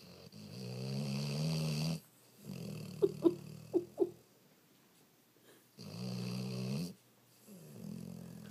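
A Weimaraner dog snoring in its sleep: four long, low snoring breaths of one to two seconds each, with four short, sharp sounds in the middle of the second.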